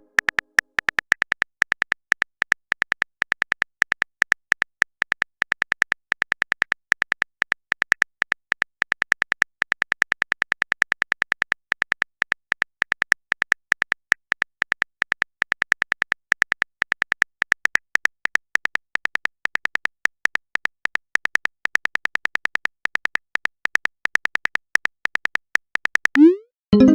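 Smartphone keyboard typing clicks: a long run of short, high ticks, several a second with brief pauses. A short rising chime sounds near the end.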